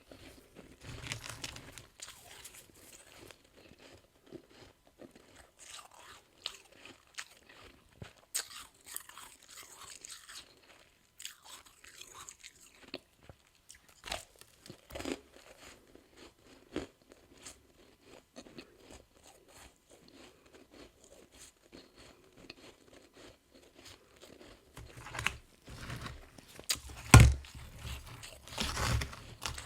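Person biting and chewing soft freezer frost, a steady run of crisp crunches, louder and denser near the end.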